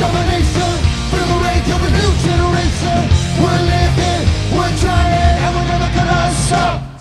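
Punk rock band playing live: distorted guitars, bass and fast drums, loud and dense, with a melodic line held over the top. The music drops out for an instant right at the end.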